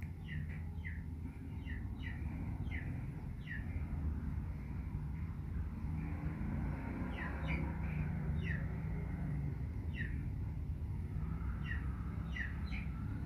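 Small birds chirping in the background, short high notes that drop in pitch, coming in little runs of a few at a time, over a steady low rumble.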